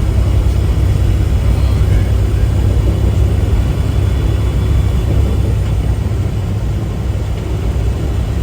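Steady low drone of a semi-truck's diesel engine and road noise, heard inside the cab while driving.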